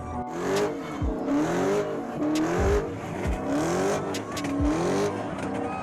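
Car engine revved hard and let fall again over and over, rising and dropping in pitch about once a second.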